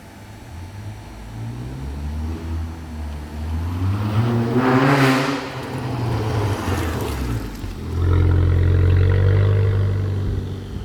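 Car engine revving, its low hum rising and falling, with a loud whooshing rush about five seconds in and a steady low drone near the end.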